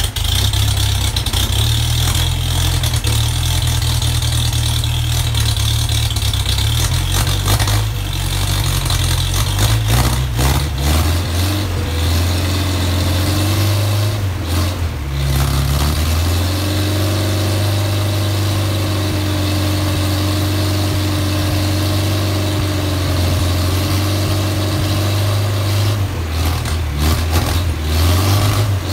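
Freshly rebuilt 1956 Mercedes-Benz 190SL 1.9-litre four-cylinder engine running on its first start, just after catching: the revs rise and fall unevenly for the first half, then it settles into steadier running from a little past the middle.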